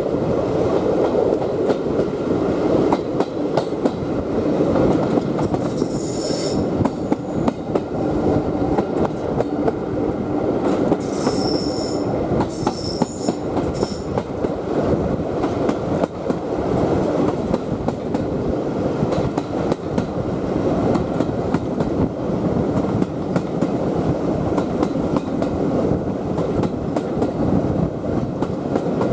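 Railway carriage running along the track, heard from an open carriage window: a steady rumble of wheels on rail with frequent rail clicks. High-pitched wheel squeal comes in about six seconds in, and again from about eleven to fourteen seconds in.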